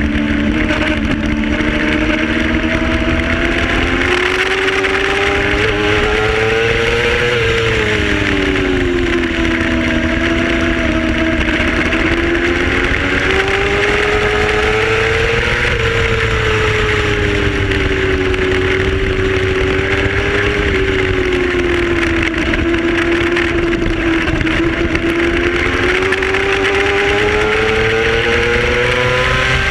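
Racing motorcycle engine at speed, its pitch climbing steadily and then sliding down several times as the rider accelerates and slows through the corners, under a heavy, constant rush of wind.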